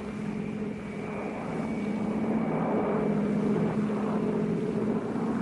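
Aircraft engines droning steadily, growing slightly louder.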